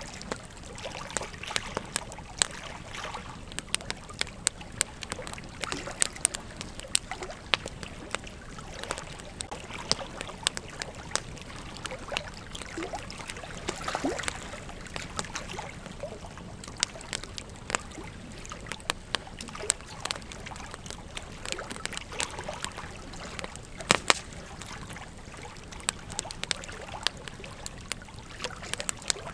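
Wood campfire burning, with frequent sharp crackles and pops over a steady low hiss; a couple of louder pops come about two thirds of the way through.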